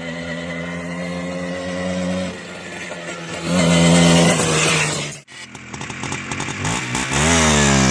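Small motorcycle engine running, then revving up loudly about three and a half seconds in. The sound breaks off abruptly a little after five seconds and comes back with the engine's pitch rising and falling.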